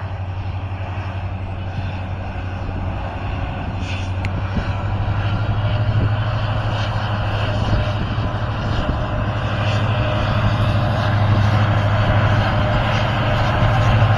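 Locomotive-hauled express train approaching: a steady low rumble with running noise that grows gradually louder as it nears.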